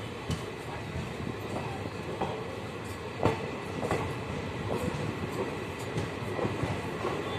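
Passenger train rolling along a station platform, heard from on board: a steady running rumble with irregular wheel clicks and knocks, one louder knock about three seconds in.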